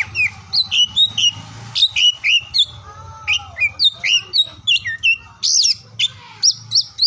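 Oriental magpie-robin (kacer) singing: a rapid, varied run of short, clear whistled notes that sweep up and down, several a second.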